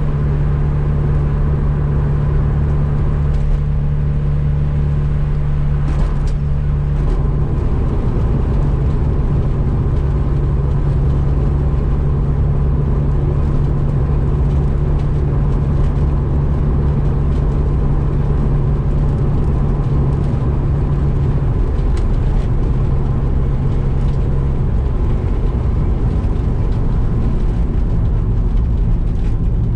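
Mazda RX-7 FC's 13B turbo twin-rotor engine running under way at a steady cruise. Its note steps lower a couple of times as speed or gear changes.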